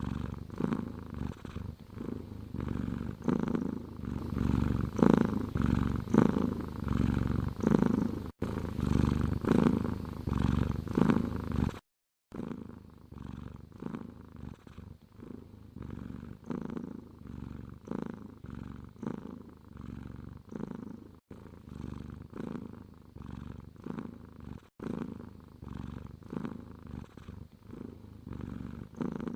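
Domestic cat purring close up, a steady rhythmic purr rising and falling with each breath. It breaks off for a moment about twelve seconds in and carries on quieter.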